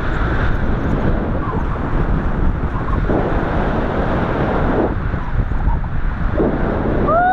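Strong wind rushing over the camera's microphone in flight: loud, steady wind noise with gusty swells.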